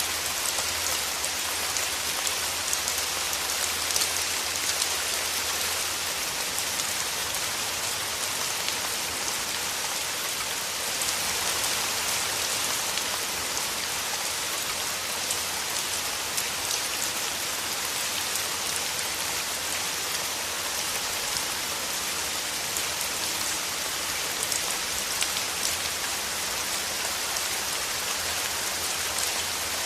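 Steady rain falling through forest trees: a dense, even hiss with many light drop ticks scattered through it.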